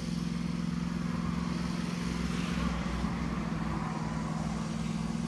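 A steady mechanical hum with a constant low drone, like a running motor somewhere in the background.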